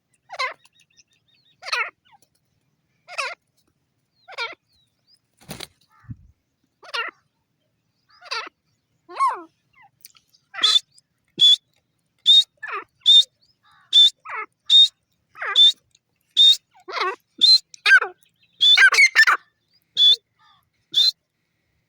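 Grey francolin (teetar) calling: a series of short, harsh calls about once every second or so. From about halfway through, the calls come faster and carry sharp high notes, crowding together near the end.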